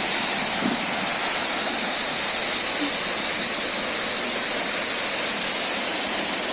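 A tall waterfall, about 40 metres high, making a steady, even rush of falling water, with a hissy high edge.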